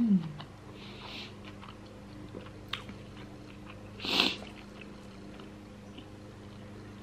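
Close-miked eating of a chicken salad wrap: soft chewing with small mouth clicks, and one louder, noisy bite into the wrap about four seconds in. A brief vocal sound falls in pitch at the very start, and a steady low hum runs underneath.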